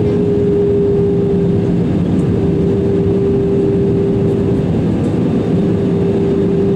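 Steady cabin noise inside an Airbus A320-200 in flight: the engines drone with a steady hum that sinks very slightly in pitch, over the rush of air.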